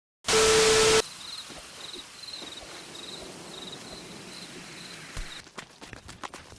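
A loud burst of hiss with a steady hum lasts under a second, then cuts off to faint outdoor ambience with a repeating high insect chirp, like crickets. Near the end, scattered rustling clicks, like footsteps.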